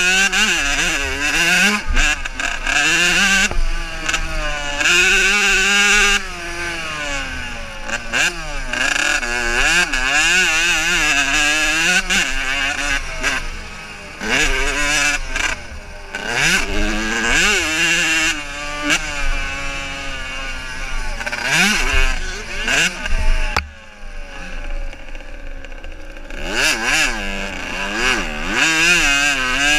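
Several motocross bikes' engines revving hard, pitch climbing and dropping again and again as they accelerate and shift through the gears, the sounds of different bikes overlapping. About four-fifths of the way through the engines drop away briefly before more bikes come through.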